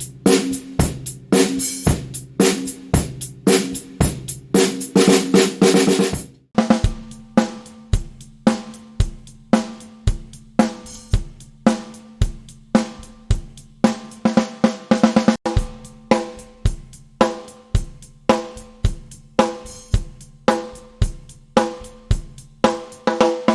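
Drum kit played in a steady groove for a snare drum sound test: snare backbeats with hi-hat, cymbals and bass drum. About six seconds in it cuts to another take in which the snare rings on after each hit.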